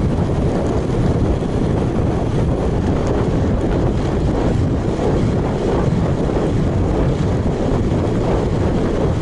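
Steady wind rush on an action camera's microphone from a road bike ride, loud and even, with no distinct events.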